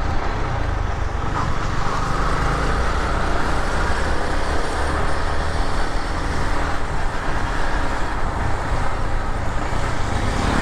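Steady motor-vehicle road noise with a heavy low rumble, with no single event standing out.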